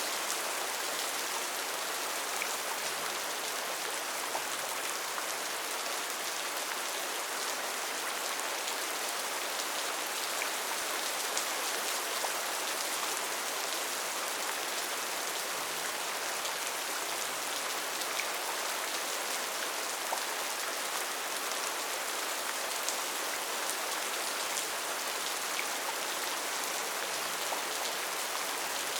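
Steady rain falling on foliage in a rainforest: an even, unbroken hiss of rain with scattered drops ticking.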